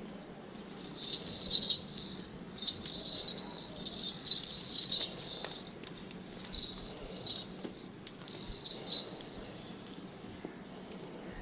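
Metallic rattling and jingling in irregular bursts, starting about a second in and dying away about nine seconds in.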